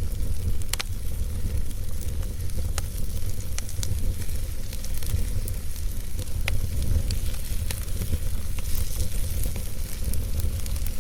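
Wood logs burning in a fireplace: steady crackling with scattered sharp pops, the loudest a bit under a second in, over a constant low rumble and hiss.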